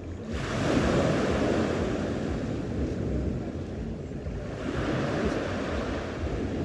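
Sea waves washing onto the shore, two surges one after the other, with some wind on the microphone.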